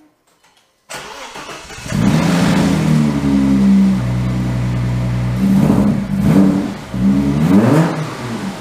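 Audi B5 S4's 2.7-litre twin-turbo V6 cranked by the starter about a second in, catching and settling to a steady run, then revved up and back down twice near the end. It is the first start after the fuel lines were disconnected and refitted for a catch can install.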